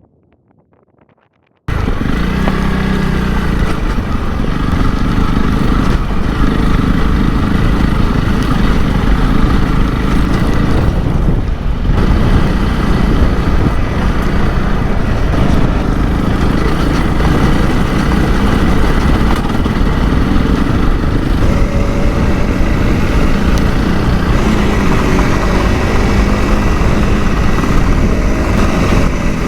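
Honda CRF300L Rally's single-cylinder engine running steadily as the motorcycle is ridden, cutting in suddenly after near silence a little under two seconds in.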